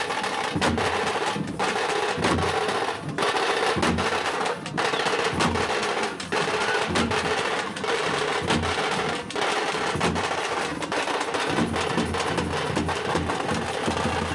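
Tamate frame drums beaten with sticks in a fast, dense, continuous rhythm.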